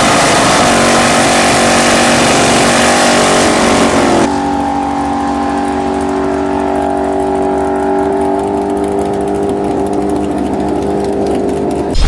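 Loud drag-racing car engines. One runs hard with its pitch dipping slightly, then about four seconds in the sound cuts abruptly to another engine holding a steady pitch.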